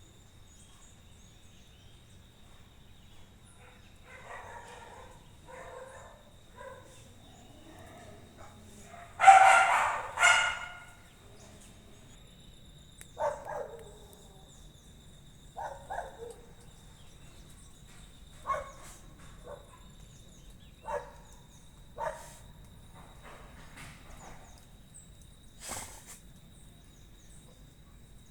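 A dog barking: two loud barks about nine and ten seconds in, then single shorter barks every few seconds.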